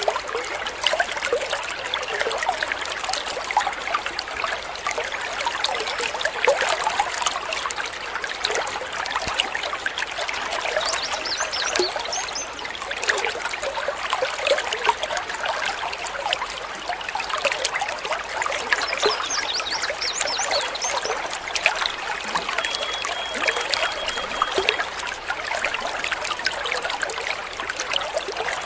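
Water trickling and babbling steadily over stones in a small stream, a continuous splashy gurgle. A few faint high bird chirps come through partway along, and a short held high note near the end.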